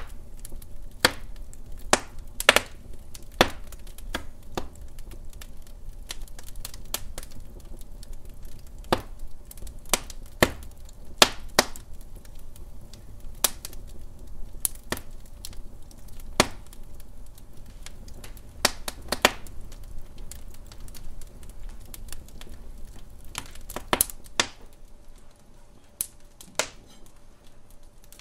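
Wood fire crackling in a hearth: irregular sharp pops and snaps from the burning logs, a few each second, over the low steady rumble of the flames.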